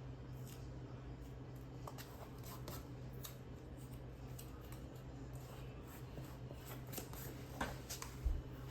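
Scattered small clicks and light scraping of hand work with tools, over a steady low hum, with a couple of louder knocks near the end.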